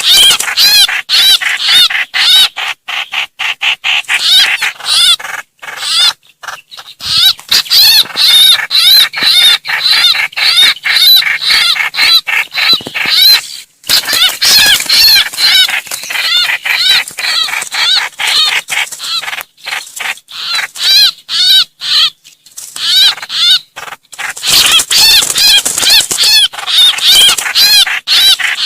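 Trao trảo bird distress calls, the kind used as a lure call to bring in a flock: rapid, harsh, repeated notes, several a second, in long runs broken by a few short pauses.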